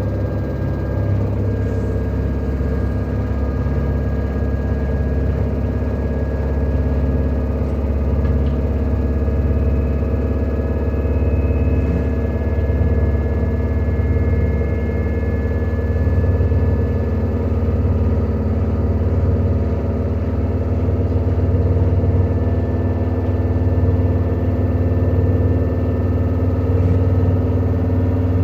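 LG direct-drive washing machine in its spin cycle, making a loud, steady low rumble with faint high whines over it. The abnormally loud spin noise is the sign of a spin fault.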